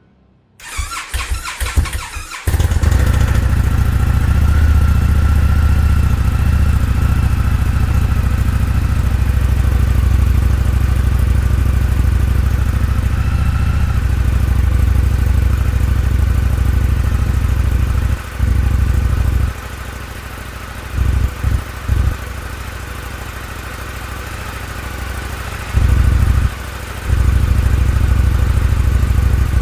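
Indian FTR 1200's 1203 cc V-twin cranking on the starter for about two seconds, then catching and running steadily: its first start after three years of sitting, on fresh fuel and a fresh battery. In the last ten seconds the engine sound drops in level and comes back several times.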